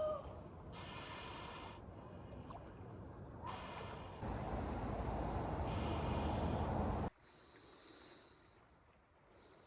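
A swimmer breathing hard, with sharp gasps and blown-out breaths, over rushing water, with a louder rush for a few seconds. About seven seconds in it cuts off suddenly to quiet with faint high chirps.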